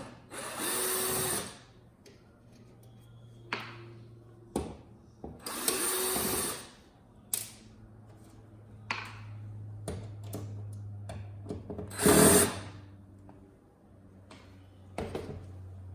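Power screwdriver running in three short bursts of about a second each, driving out screws from the TV's casing, with clicks of parts being handled between the bursts.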